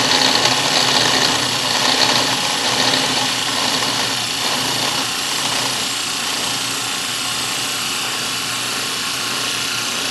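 Tire-shaving machine's power-driven cutter shaving rubber off a spinning tire to true it round: a steady, loud grinding whir, a little louder in the first few seconds before it evens out.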